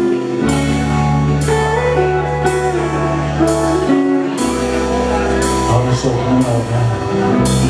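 Live band playing a slow instrumental intro, with guitar and held bass notes over a sharp drum stroke about once a second.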